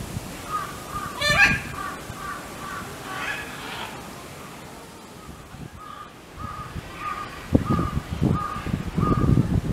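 A bird calling: one louder call that rises and falls about a second in, then a run of short, even notes at one pitch, about two a second, over the last few seconds, with a few low thumps near the end.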